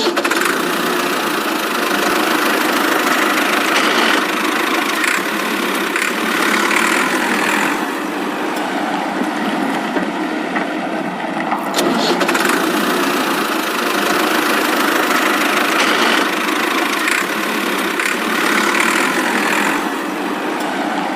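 Engine running sound with almost no deep bass, continuous and swelling every few seconds, with a few brief clicks.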